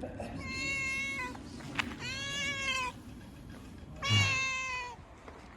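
Cat meowing: three drawn-out meows, each about a second long, with a short click between the first two.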